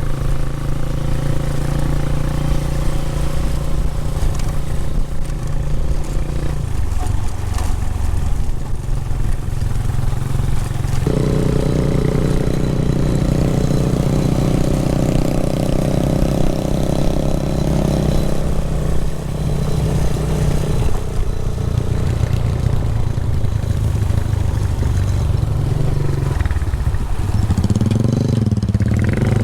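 Motorcycle engine running under way, with wind hiss. Its pitch steps to a new level several times and rises near the end as it speeds up.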